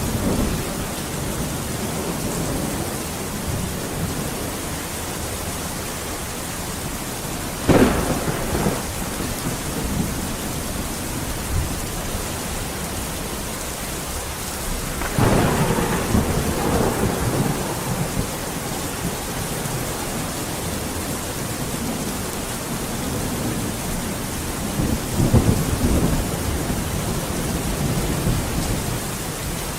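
Steady heavy rain, with thunder in a thunderstorm: a sharp crack about eight seconds in, then two longer low rumbles, one about halfway through and one near the end.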